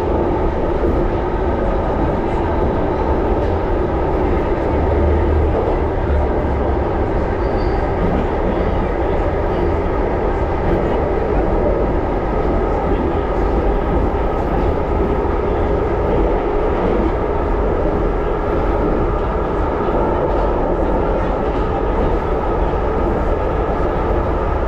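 1938 Tube Stock electric train running steadily on the Underground: a continuous rumble of wheels on rail with a faint steady whine.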